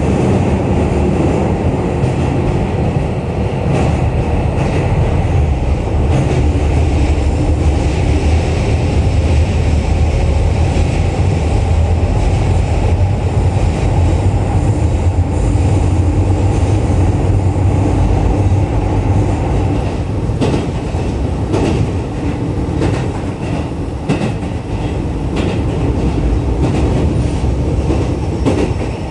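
Running noise of a Keio 7000-series electric commuter train, heard inside the passenger car: a steady, loud rumble of wheels on rail. In the second half it is broken by a run of sharp rail-joint clicks.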